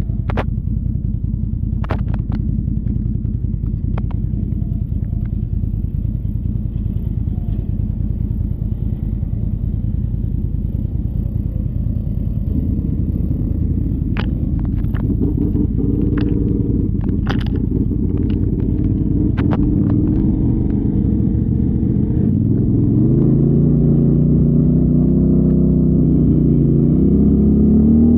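Off-road vehicle engine running with a low rumble, with scattered knocks and clatter over it; in the last several seconds the engine revs up, its pitch rising.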